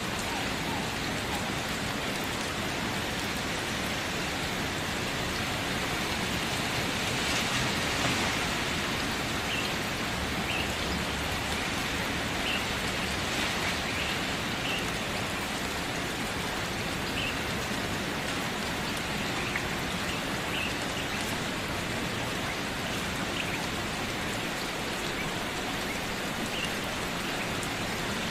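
Steady rain falling, an even hiss that swells slightly about a quarter of the way in. A few faint, short, high chirps are scattered through it.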